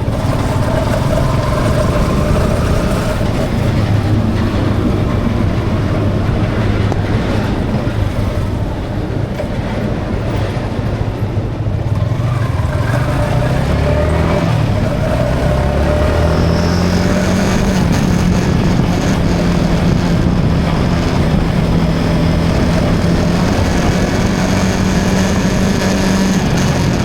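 Yamaha XSR 155 motorcycle's single-cylinder engine running under way, with wind and road noise. Its note dips about halfway through, then climbs over a few seconds and holds steady.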